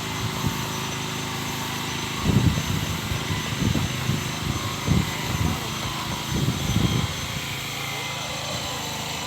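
A steady engine drone, with a run of short, low, muffled bursts from about two seconds in until about seven seconds.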